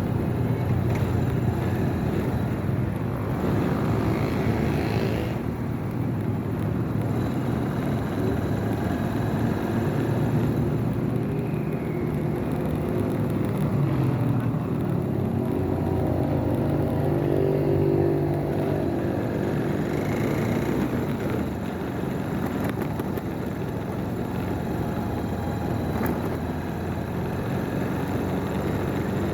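Motorcycle ridden on the road: the engine runs steadily, its note rising and falling as it speeds up and eases off, over steady wind and road noise.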